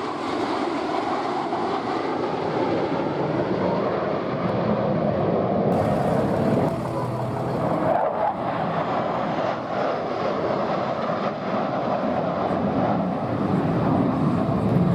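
Jet engine roar of a Thunderbirds F-16 fighter flying past, a steady rushing noise that swells to its loudest near the end.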